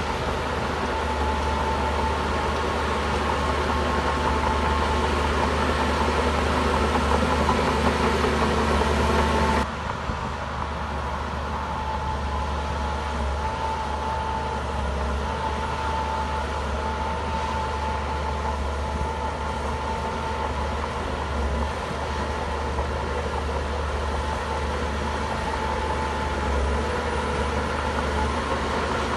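Heavy diesel earthmoving machinery running steadily, a deep engine rumble with a steady whine over it. About ten seconds in the sound drops abruptly in level and loses its hiss, then carries on evenly.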